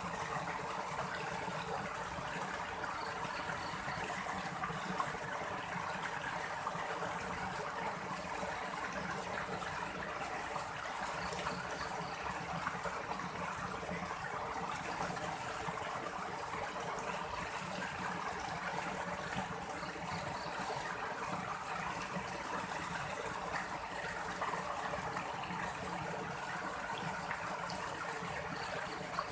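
Running water flowing steadily, an even rushing with no breaks.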